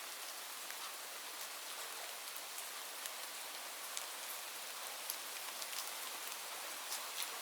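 Steady rain falling, an even hiss with scattered distinct drop impacts ticking throughout.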